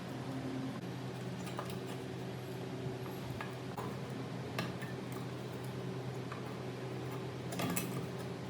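Scattered light metallic clicks and taps of small parts being handled, over a steady low hum.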